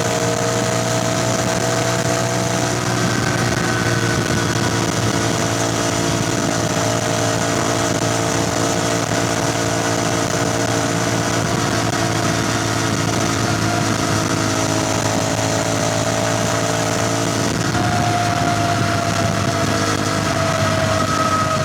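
CFMoto 450NK parallel-twin engine running while riding at a fairly steady speed, its pitch drifting slightly, with a brief change in engine pitch near the end.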